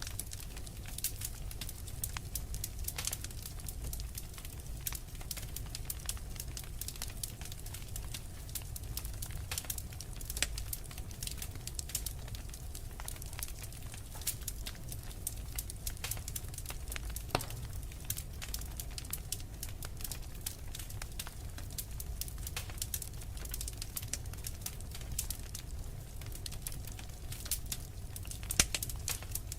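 Wood fire crackling, with frequent sharp pops and snaps over a steady low rumble; one pop near the end is the loudest.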